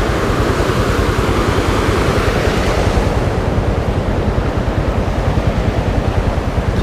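Wind rushing over the helmet microphone of a moving Honda XRM 125 motorcycle: a loud, steady roar of wind noise with a rapid low pulsing beneath it.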